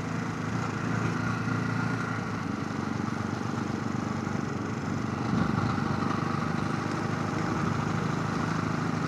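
Motorcycle engine running steadily under way, heard from a helmet chin-mounted camera with road and wind noise, getting a little louder about five seconds in.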